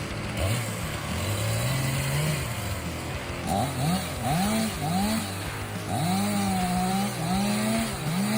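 Chainsaw engine running, low and fairly steady at first, then revved up and down about once a second from about halfway through as the throttle is blipped.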